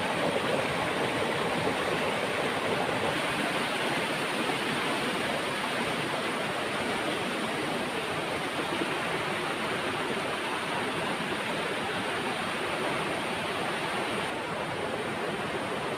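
Steady rush of flowing water from a mountain stream or waterfall, even and unbroken.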